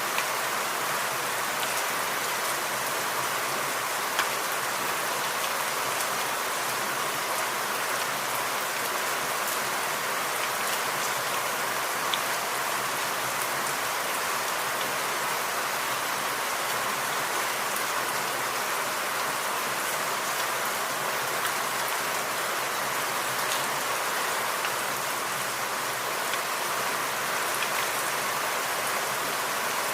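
Steady rain falling in a forest, with scattered individual drops ticking louder now and then.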